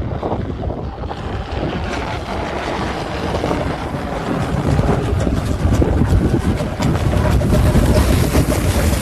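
Snowstorm wind gusting hard across the microphone, a heavy buffeting rumble. A faint steady tone joins about seven seconds in.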